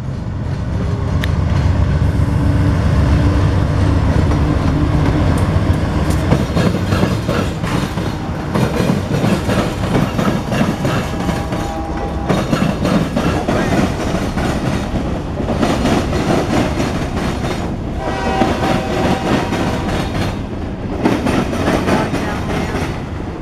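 CSX freight train passing close by: the diesel locomotives' engines rumble heavily for about the first six seconds, then the loaded covered hopper cars of the grain train roll past steadily on the rails.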